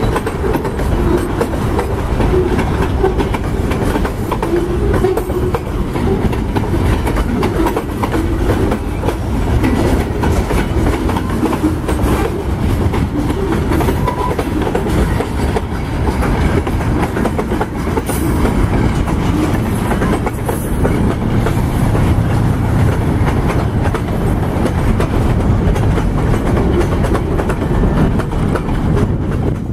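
Freight cars (boxcars and tank cars) rolling past close by: a steady low rumble of steel wheels on rail, with the clickety-clack of wheels passing over rail joints.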